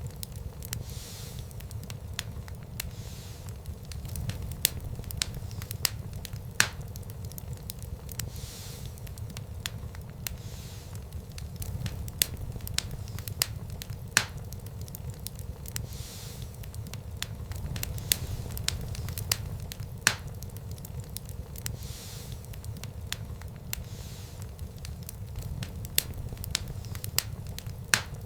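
Fire in a fireplace crackling: irregular sharp snaps and pops, a few of them louder, over a steady low rumble of the flames.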